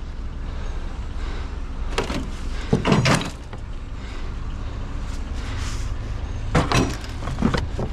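Scrap being piled into a vehicle: several knocks and clanks, with a loud scraping squeal about three seconds in, over a steady low engine rumble.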